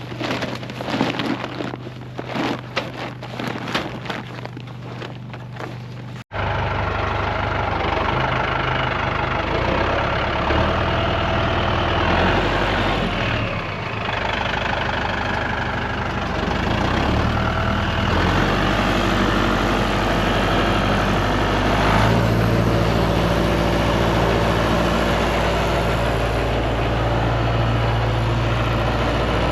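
A low engine hum under a stretch of rapid clicks and rattles. After an abrupt cut about six seconds in, a louder vehicle engine runs steadily, its pitch shifting up and down several times.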